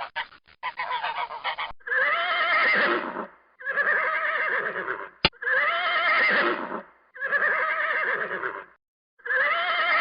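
A horse whinnying, five long wavering calls in a row, with a sharp click about halfway through.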